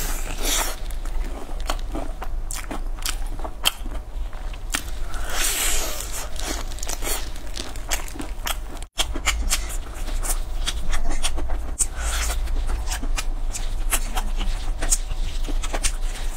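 Close-up crunching and chewing of crispy, sauce-glazed fried chicken: many quick, sharp crackles and mouth sounds as it is bitten and chewed. There is a brief gap of total silence about nine seconds in.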